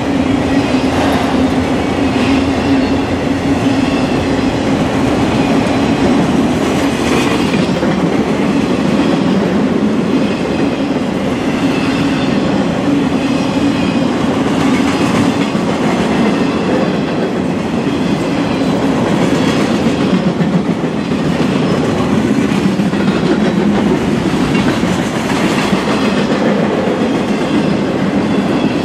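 Freight train cars rolling past at speed: a steady rumble of steel wheels on rail, with scattered clatter as the wheels pass over rail joints. A low hum runs under it and drops a little in pitch about halfway through.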